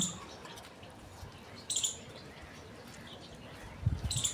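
Short high bird chirps, one just under two seconds in and another near the end, over a quiet outdoor background, with a few low thuds just before the end.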